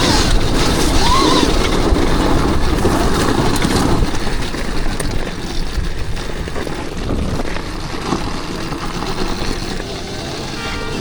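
Dirt bike being ridden, its motor mixed with heavy wind rush over the microphone, easing somewhat about four seconds in.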